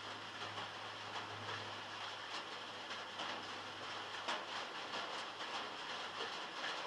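Heavy rain falling on metal, heard from inside a shed: a dense, steady patter with many separate sharper drop strikes, one louder strike about four seconds in.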